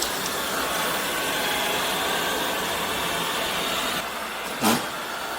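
Robot vacuum cleaner running, a steady whirring hiss from its motor and brushes that eases a little about four seconds in. Near the end comes one short, loud sound that falls in pitch.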